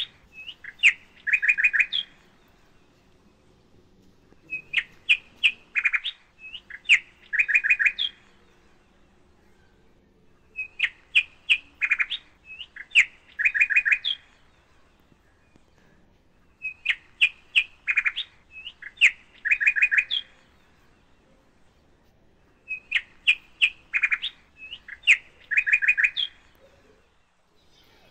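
Bird chirping: the same phrase of quick, high chirps, about two seconds long, repeats every six seconds or so with quiet gaps in between.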